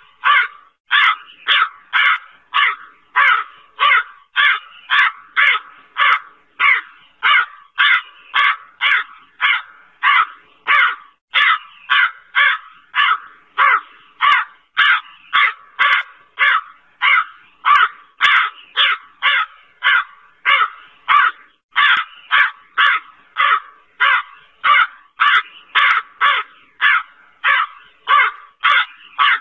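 Crow cawing over and over in a steady, even rhythm, about two harsh caws a second.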